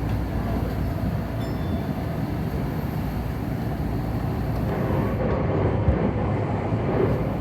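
Commuter electric train running, heard from inside the car: a steady low rumble with a couple of louder knocks from the wheels about six and seven seconds in.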